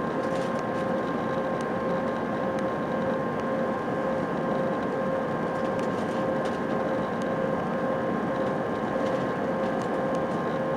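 Airliner cabin noise from an Airbus A319 in flight: a steady rush of air and engine noise with a few steady whining tones from its turbofans, and faint ticks here and there.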